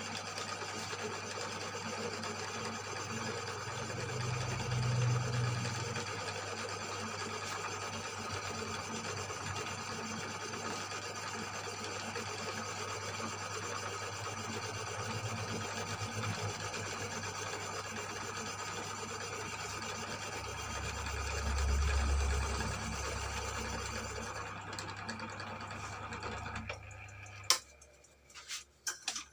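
Electric cylinder boring machine running steadily, its cutter taking a pass through a Yamaha Mio M3 motorcycle cylinder block. It shuts off near the end with a sharp click.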